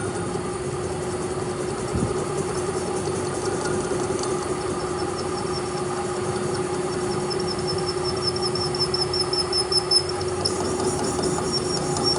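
A machine running steadily with a constant hum, and a faint high whine through the middle of the stretch.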